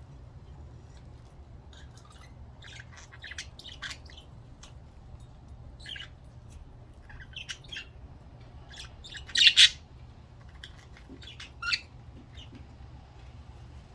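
Budgerigars chirping and chattering in short, scattered calls, with the loudest burst of sharp calls about nine and a half seconds in.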